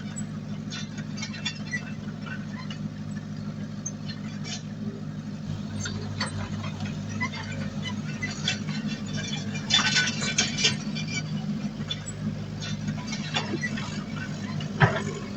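Diesel engine of heavy earthmoving machinery running steadily, with scattered clanks and knocks of metal and earth, a louder cluster about ten seconds in and a sharp knock near the end.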